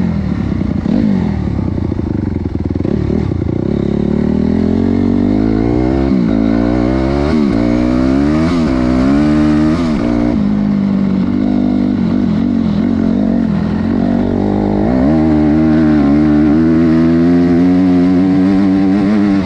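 Honda CRF250R's single-cylinder four-stroke engine revving, its pitch rising and falling repeatedly with several quick rises in the middle, then held at steady high revs near the end.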